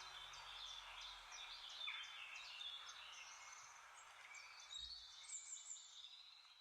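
Several small birds chirping and whistling over a steady background hiss, the sound starting to fade out near the end.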